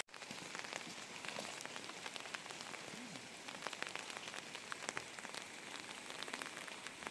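Steady rain falling, with many individual drops ticking sharply against a surface.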